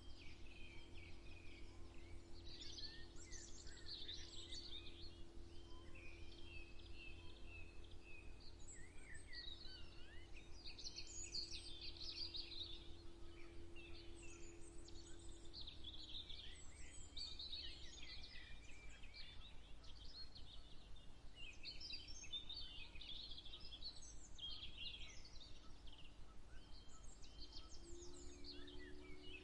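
Several songbirds singing and chirping at once, overlapping trills and quick notes throughout, over a steady low rumble and a faint steady hum that stops about halfway through.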